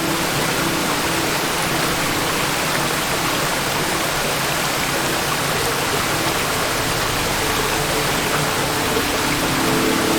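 Waterfall: water falling and rushing as a steady, even roar of noise.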